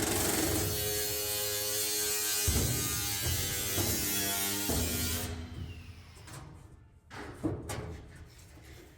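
A power tool's motor buzzing steadily, then stopping about five seconds in, followed by a few light knocks.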